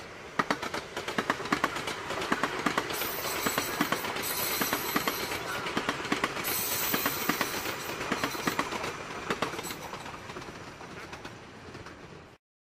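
A train running on the rails, with a rushing sound and a run of sharp clicks from the wheels passing over rail joints. It swells and then fades, and cuts off suddenly near the end.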